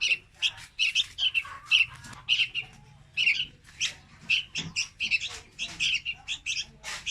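Young red-whiskered bulbuls calling: a rapid, unbroken run of short, high chirps, several a second.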